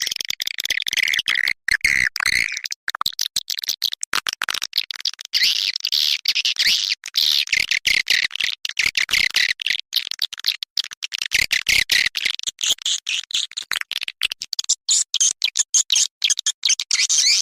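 Swiftlet lure call track, a recording of edible-nest swiftlet calls played to attract the birds to a nesting house. It is a fast, unbroken stream of high-pitched chattering chirps and clicks.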